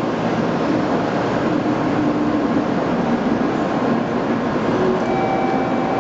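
Shinkansen train running: a steady rushing noise with no rise or fall in loudness.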